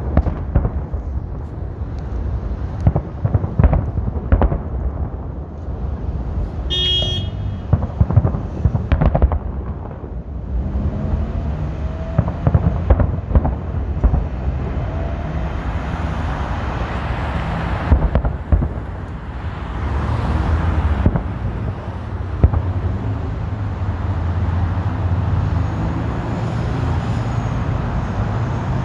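Fireworks exploding in quick, irregular bangs through the first ten seconds or so, then fewer bangs. Road traffic passing makes a steady rumble that builds through the second half.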